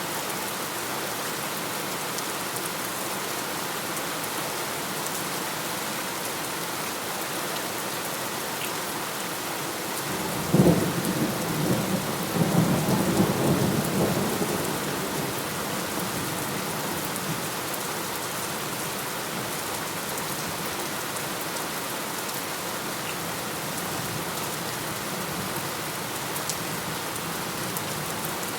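Steady heavy rain falling, with one thunderclap about a third of the way in: a sharp crack followed by a few seconds of rumbling that fades back into the rain.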